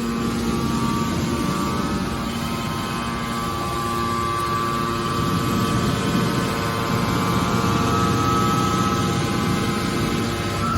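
Hydraulic scrap copper baler running: a steady machine drone with a held whine from its hydraulic pump.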